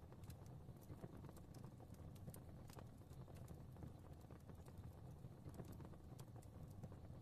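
Fire crackling softly: irregular small pops and snaps over a low, steady rumble.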